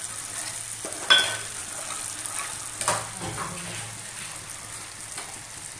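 Food sizzling in hot oil while a metal spoon stirs a steel pot, clinking sharply against the pot twice, about a second in and near the middle.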